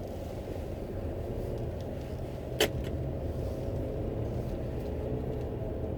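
Steady low engine and road rumble heard inside a car's cabin, with one sharp click about two and a half seconds in.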